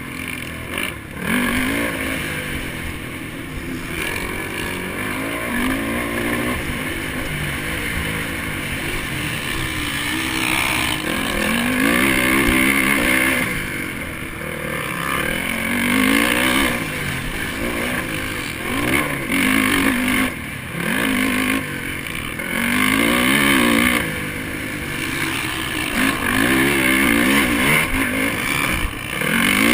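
Honda 450 four-stroke motocross bike's engine being ridden hard. It revs up and drops back repeatedly, pitch climbing and falling every few seconds as the throttle opens and shuts through the gears and corners.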